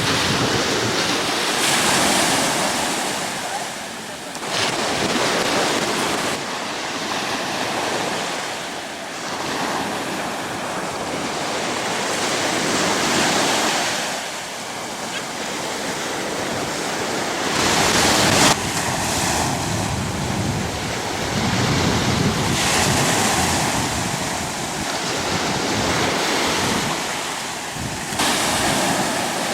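Surf breaking and washing on a beach, swelling and fading every few seconds, with wind buffeting the microphone.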